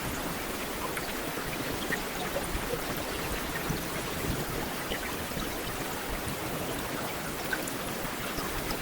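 Heavy rain falling steadily on a street, an even hiss of rain dotted with many small individual drop taps.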